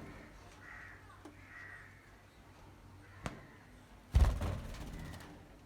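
Pet budgerigars giving faint short chirps, then a sharp click a little past three seconds in and a louder rustling thump about four seconds in.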